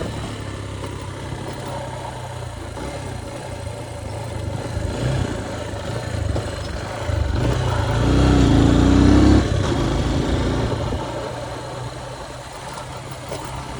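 Motorcycle engine running on the road with steady wind and road noise. About eight seconds in a louder stretch of engine sound with a wavering pitch lasts about a second and a half.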